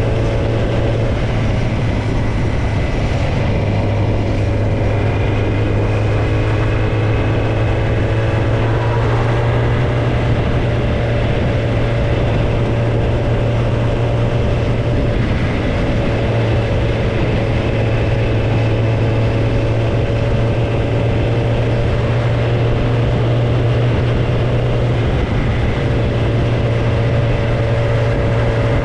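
Kawasaki ZX-10R's inline-four engine with no tailpipe, running at a steady, nearly unchanging engine speed, loud throughout.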